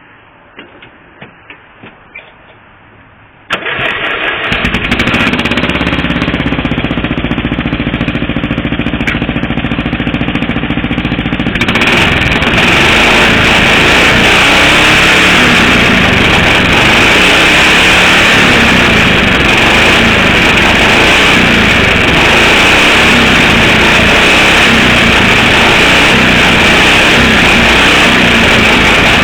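Riding lawn mower engine with a homemade exhaust pipe made from a bent weed eater shaft welded to exhaust pipe sections. After a few light clicks it starts about three and a half seconds in and keeps running. About twelve seconds in it gets louder and holds steady, with an exhaust note that sounds almost like a Harley.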